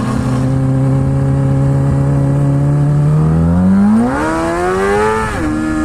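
Motorcycle engine holding a steady note, then revving up smoothly for about two seconds before dropping back sharply near the end.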